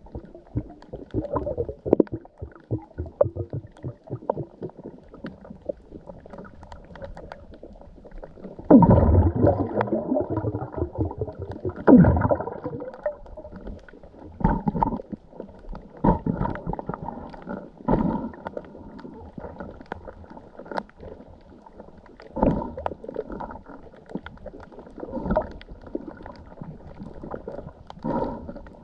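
Muffled sloshing and gurgling of sea water, with irregular louder surges every few seconds, the strongest about a third of the way in.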